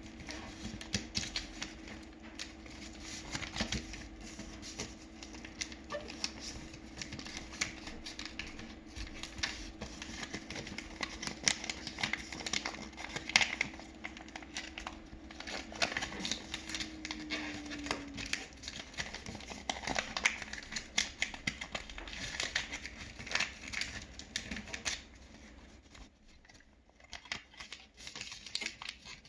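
Sheet of origami paper being folded and creased by hand: rustling, crinkling and many small sharp clicks and taps as the folds are pressed down. A faint steady hum underneath drops in pitch and stops a little past halfway.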